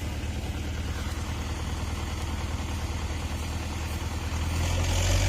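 Tractor engine running at a steady low pace, growing louder about four and a half seconds in.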